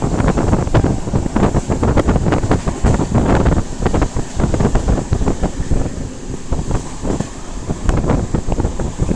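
Wind buffeting the microphone over the loud rumble and irregular rattling clatter of a moving passenger train.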